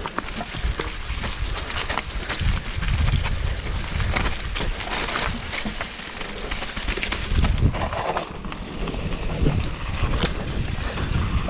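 Downhill mountain bike rattling and knocking over a rough, muddy trail at speed, with wind rumbling on the microphone.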